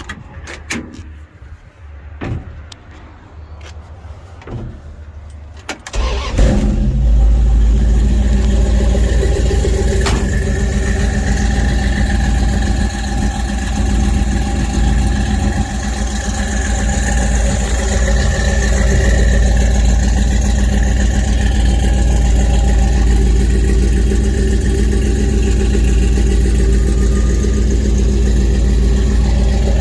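A few clicks and knocks, then the 1969 Dodge truck's 318 V8, with a mild cam, headers and Flowmaster mufflers, starts about six seconds in and settles into a steady idle.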